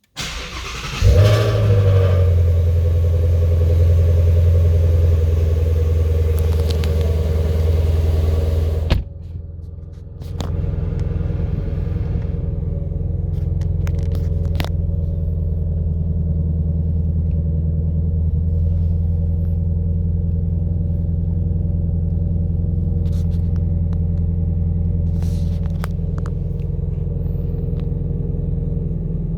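Car engine cold-starting: a short crank, then it catches and runs a loud, fast cold idle. About nine seconds in the level drops sharply for a moment, then the engine settles into a steady, lower idle.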